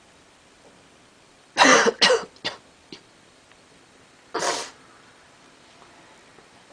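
A person coughing: a quick fit of three or four harsh coughs, then one more cough about two seconds later.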